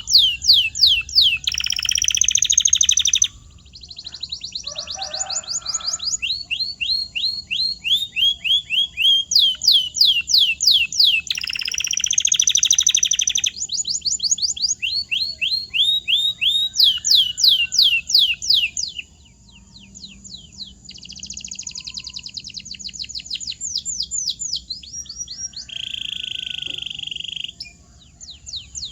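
Canary singing a long, varied song: phrases of rapidly repeated, downward-sweeping whistled notes alternating with buzzy rolls, the pitch shifting from phrase to phrase.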